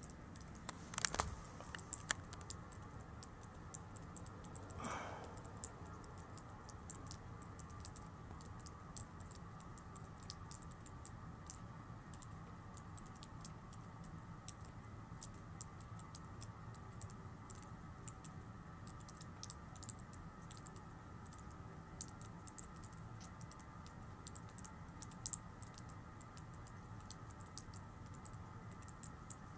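Faint scattered clicks and ticks over a steady low hum, with a short louder rush about five seconds in and a few sharper clicks about a second in.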